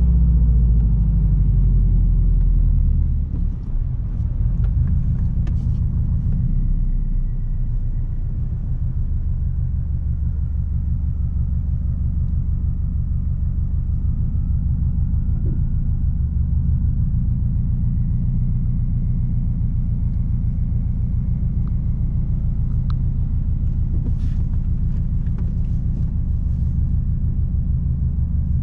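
Straight-piped 2006 Subaru WRX STI's turbocharged 2.5-litre flat-four exhaust rumbling, its revs falling over the first three seconds and then holding steady at low revs.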